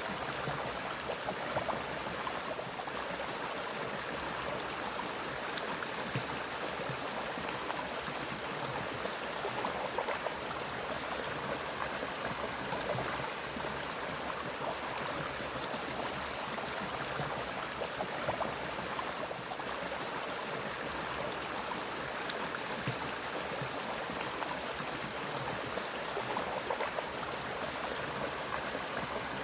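Mountain stream flowing steadily over its bed, an even rushing of water, with a steady high-pitched tone above it.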